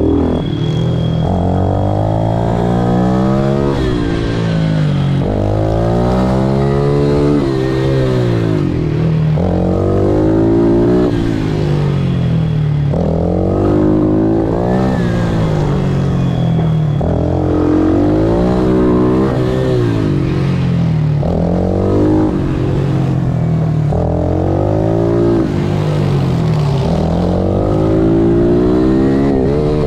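Pit bike engine at racing pace, revving up and dropping back again and again, about ten climbs in half a minute as it accelerates out of corners and shifts.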